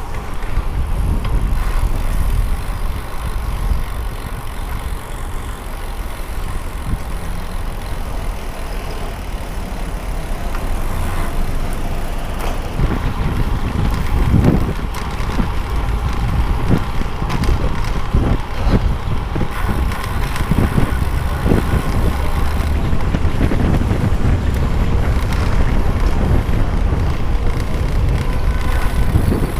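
Wind rumbling steadily on the microphone of a bicycle rider's camera, which has no windscreen, over the road noise of riding along a city street with traffic. A few short knocks come between about twelve and twenty-one seconds in.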